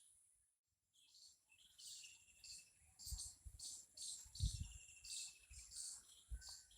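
Faint chirping of birds and insects: repeated short high chirps with a buzzy trill now and then, starting after a brief silence near the beginning. A few soft low thumps break in, the strongest about halfway through.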